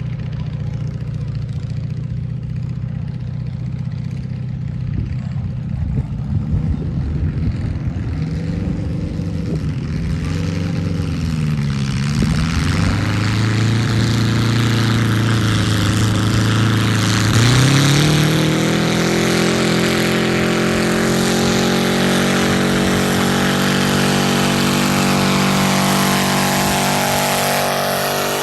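Modified garden pulling tractor's engine running hard during a pull: it starts low and steady, revs up, sags once, then climbs sharply and holds at high revs before dropping off near the end.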